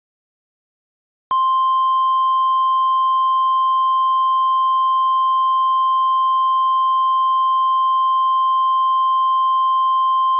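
NOAA Weather Radio 1050 Hz warning alarm tone: a single loud, steady, unbroken beep starting about a second in, signalling that a tornado warning broadcast follows.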